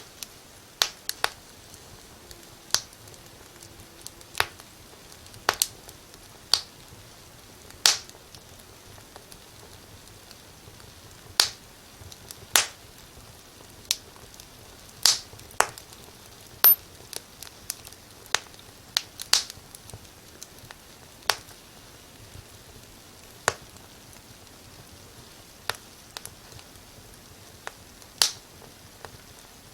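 Wood fire crackling in a fireplace: irregular sharp pops and snaps, some loud and some faint, over a soft steady hiss.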